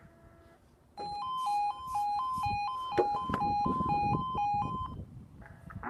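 Level crossing warning alarm sounding, a two-tone warble switching rapidly between two pitches, starting about a second in and dying away near the end.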